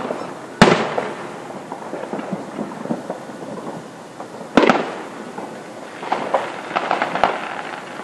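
Aerial fireworks shells bursting: a loud bang about half a second in and another about four and a half seconds in, each with a ringing tail, followed by a run of smaller crackling pops.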